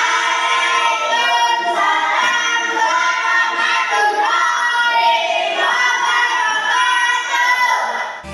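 A group of children singing together in unison, loud and sustained, cut off abruptly near the end.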